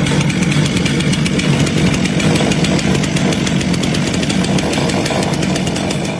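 A motor running loud and steady, with a fast, even rattle.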